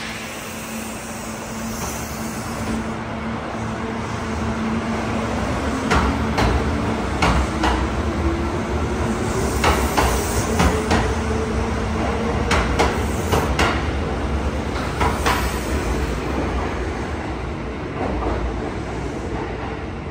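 Kintetsu electric train pulling away: its motor whine rises in pitch as it accelerates, then holds steady, and the wheels clack repeatedly over rail joints and points in the middle of the stretch.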